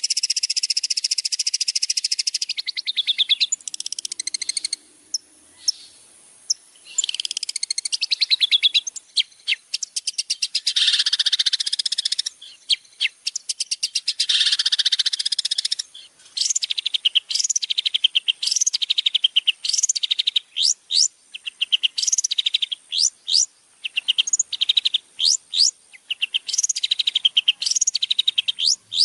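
Long-tailed shrike (cendet) singing a fast, varied song: rapid trills and rattles, then a long run of separate sharp, sweeping notes with short gaps between them.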